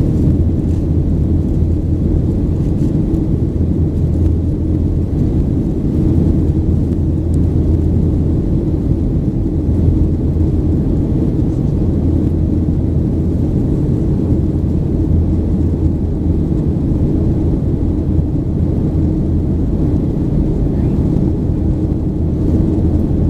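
Steady, loud drone inside the cabin of a Boeing 737-800 in flight: its CFM56-7B jet engines and the airflow, heard through the fuselage.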